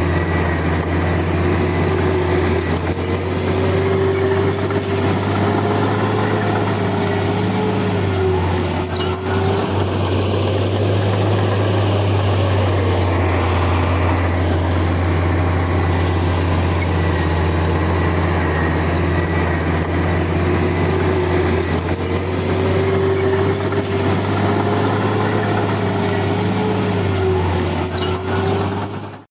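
Heavy diesel engine of earthmoving machinery running steadily under load, with a whine that rises and falls twice, about three and twenty-two seconds in. The sound cuts off abruptly at the end.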